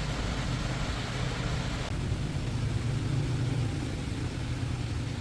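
Engine running steadily with a low hum; a hiss over it eases about two seconds in.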